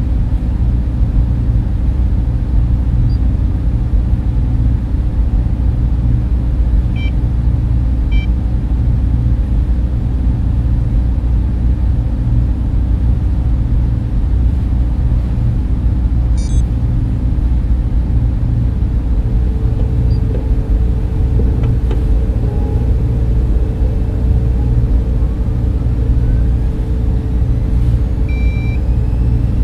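Steady data-centre machine-room noise: server and cooling fans running with a deep rumble and a low steady hum. A few faint short beeps come through, two of them about a second apart early on and one near the end.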